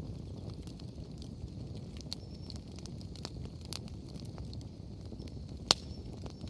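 Wood bonfire burning: a steady low rush of flame with scattered crackles from the burning firewood, and one sharp, much louder pop near the end.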